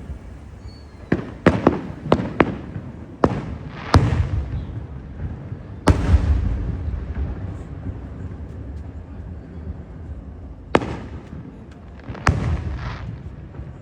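Aerial fireworks shells bursting: a string of sharp bangs, each with a rolling echo, including a heavy boom about six seconds in.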